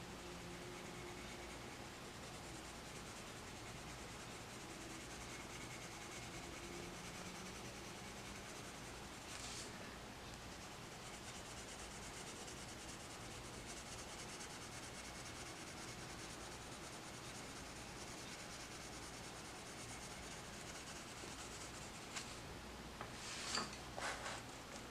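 Colored pencil shading on a colouring-book page: a faint, steady scratchy rubbing of pencil lead on paper. A few light clicks and taps near the end.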